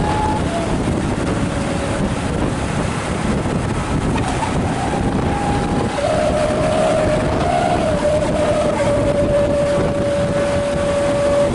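Wolf-howl exhaust whistle (knalpot srigala) on an ALS bus sounding a held, slightly wavering howl, higher and shorter twice early on, then lower and stronger from about halfway, over the steady noise of the bus running.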